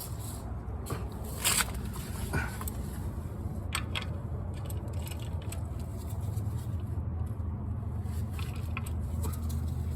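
A few irregular sharp clicks and light scrapes of a hand tool being worked on the engine oil drain plug bolt while it is tightened, over a steady low hum.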